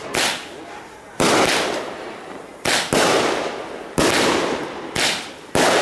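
Consumer fireworks going off in quick succession: about seven loud bangs, roughly a second apart and two of them almost together, each trailing off in a long fading rumble.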